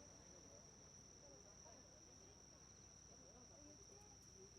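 Near silence filled by a faint, steady, high-pitched insect trill, with faint distant voices murmuring underneath.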